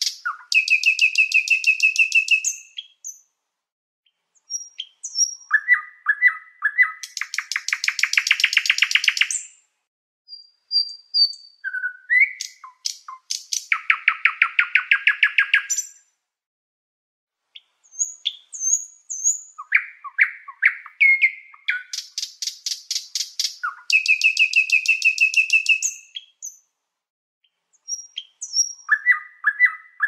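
Songbirds singing: fast, dry trills of rapidly repeated notes, each phrase lasting two to three seconds, alternating with short high chirps and whistled notes and brief pauses between phrases.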